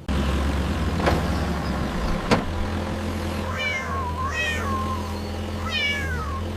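A cat meowing: a long, wavering meow in the middle, then a second meow that falls in pitch. Under it runs a steady low rumble, and two sharp clicks come before the meows.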